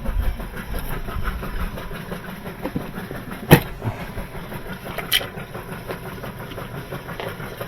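A steady low rumble with two sharp knocks: a loud one about three and a half seconds in and a lighter one near five seconds.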